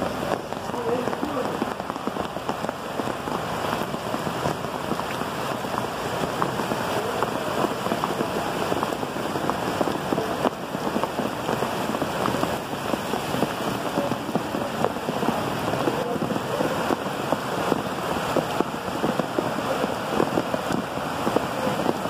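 Heavy rain pouring down steadily: a dense hiss of drops splashing on surfaces.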